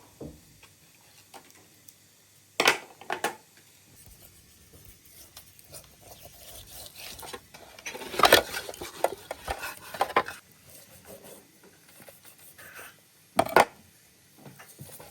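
Kitchenware being handled: sharp clinks and knocks of pots, dishes and utensils in scattered bursts, busiest a little past the middle, with a last sharp pair of knocks near the end.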